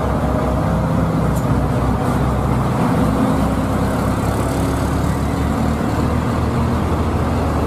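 Heavy truck engine running steadily and loud, with a low rumble.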